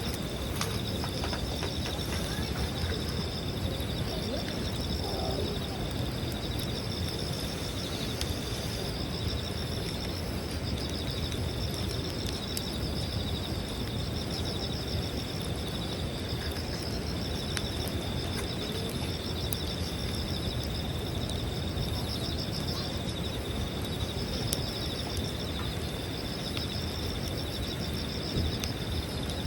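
Wood campfire burning, with steady rushing low noise and scattered sharp crackles and pops. Insects trill steadily in the background, a continuous high tone with a pulsing, waxing-and-waning chorus above it.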